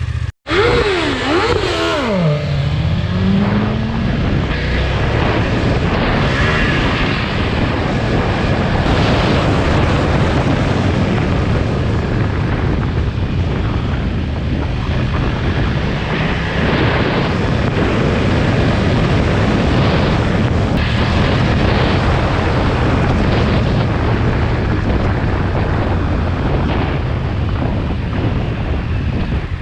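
BMW M 1000RR's inline-four engine under way at speed, heavily masked by wind rush. After a brief dropout near the start, the engine's pitch swings rapidly up and down a few times, then falls and climbs slowly again before settling into steady running.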